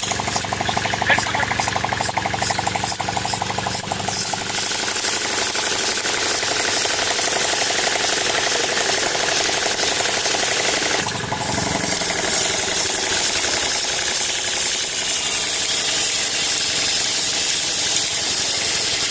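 Small engine of a petrol and compressed-air dual-mode engine running steadily, with a fast rattle and a constant hiss. Its sound shifts briefly partway through.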